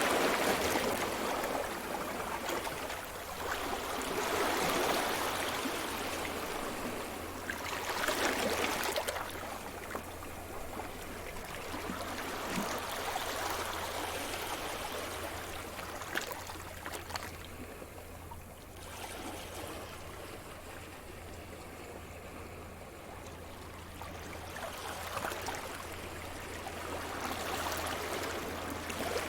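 Sea surf: waves washing in and drawing back, the sound swelling and fading every few seconds, with a quieter spell past the middle.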